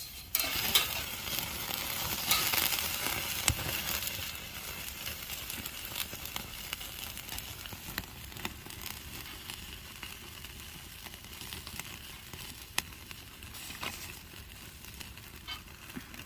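Food sizzling on a grill over an oak-wood fire, loudest for the first few seconds and then settling to a steadier hiss, with occasional sharp pops.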